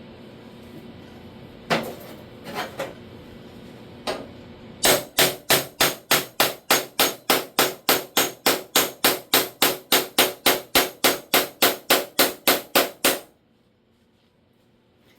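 Hammer striking the sheet-metal door skin: a few single blows, then a steady run of about thirty blows at three or four a second, each with a short metallic ring. The run stops suddenly.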